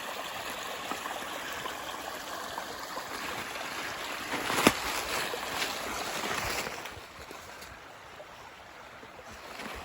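A small stream's running water, a steady rushing that drops somewhat after about seven seconds, with a single sharp click about halfway through.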